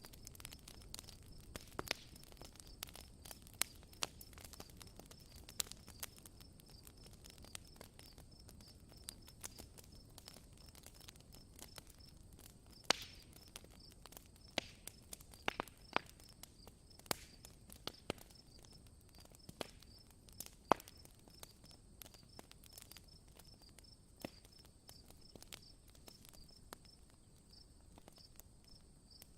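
Campfire crackling, with irregular sharp pops and snaps. Behind it runs a steady, evenly pulsing high insect chirp.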